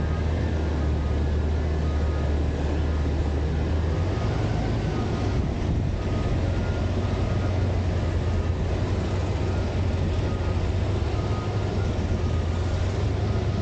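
Garbage truck's diesel engine running steadily, its low drone stepping up slightly in pitch about four seconds in.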